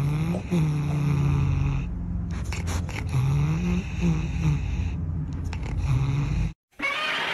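A cat making long, low moaning yowls, several drawn out and rising in pitch, one after another, stopping suddenly near the end.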